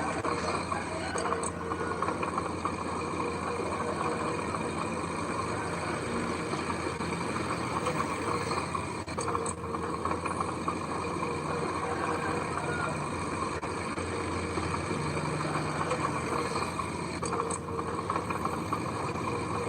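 Heavy earth-moving vehicle engine running steadily.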